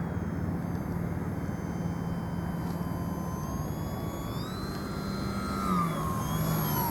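Flying W radio-controlled model airplane's motor and propeller whining during its landing approach, rising in pitch about halfway through as the throttle comes up, then easing down again near the end.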